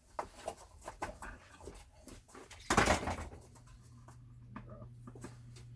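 Small clicks and clatter of toy monster trucks and plastic track pieces being handled, with one louder knock just under three seconds in, followed by a steady low hum.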